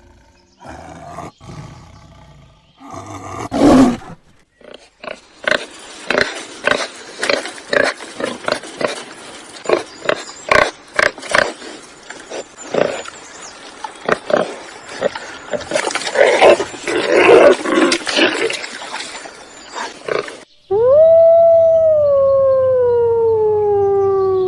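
A run of loud, rough animal calls, then a single long call that slides slowly down in pitch near the end.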